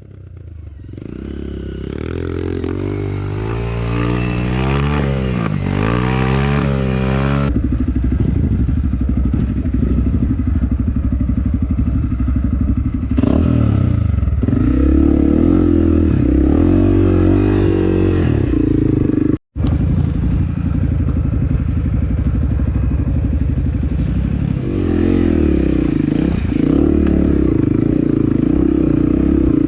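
Off-road trail motorcycle engines running and revving up and down as they ride, with clatter from the terrain. The sound changes abruptly a few times and drops out briefly about two-thirds of the way through.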